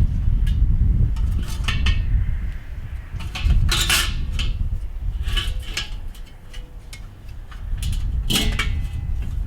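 Metal parts of a Weber kettle grill clinking, rattling and knocking together as they are handled and fitted during assembly. There are several separate clinks, some ringing briefly, over a low steady rumble.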